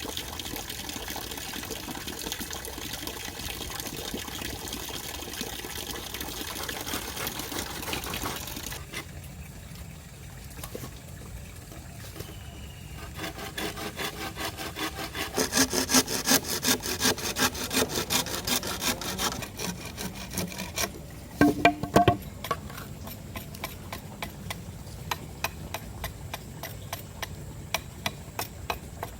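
Steady rushing water noise, then a hand saw cutting wood in quick, regular strokes. A few loud knocks come about three quarters of the way through, followed by lighter strikes on wood at an even pace.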